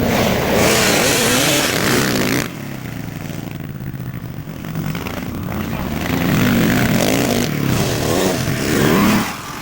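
Motocross bike engines revving hard, with the pitch rising and falling through gear changes. The sound is loud for the first two and a half seconds, drops off, then builds again and cuts down sharply near the end.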